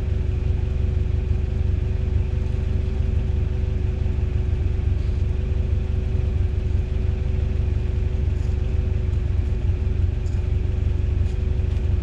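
Toyota truck's engine running at a steady low rumble, with an even hum over it.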